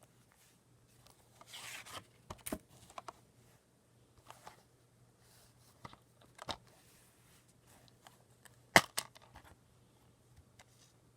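A DVD being unwrapped by hand: plastic packaging tearing and rustling, with scattered sharp clicks and handling noises, the sharpest about nine seconds in.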